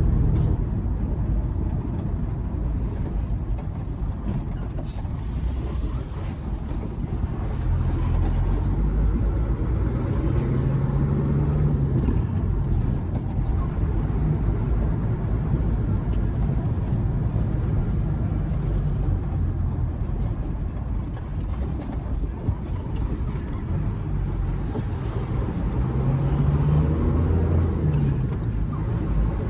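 Loaded truck's engine running on the road with steady rumble and road noise, its pitch rising and falling a couple of times as it changes speed.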